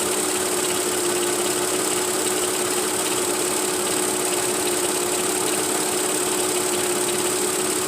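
Mercedes ML350 V6 engine idling steadily with a misfire on cylinder 1, where one of the cylinder's two spark plugs (ignition B) is not firing: the mechanic expects to need an ignition coil.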